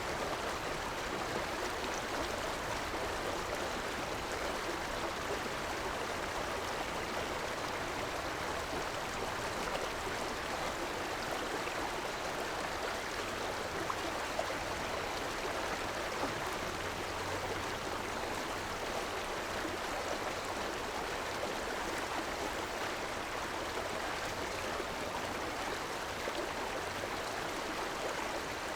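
River water rushing and gurgling over rocks, a steady, even sound with no change.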